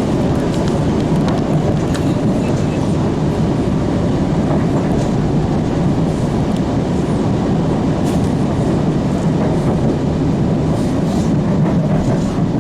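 MBTA Blue Line Siemens 700 Series subway car running at speed, heard from inside the car: a steady low rumble of wheels on rail with a few faint clicks.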